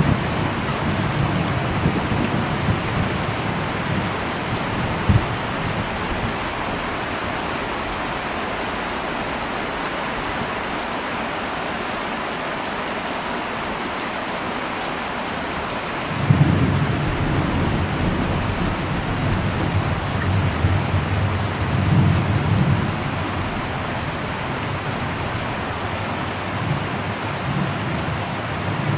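Heavy rain drumming on an old metal roof, a steady hiss. Thunder rumbles away in the first few seconds, and a new long roll of thunder breaks in a little past halfway and slowly dies down.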